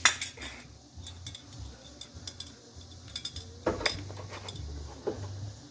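Metal clinks and taps of hand tools and latch screws against the door latch and the steel door shell while lining up the fasteners, with a sharper knock just after the start and another about three and a half seconds in.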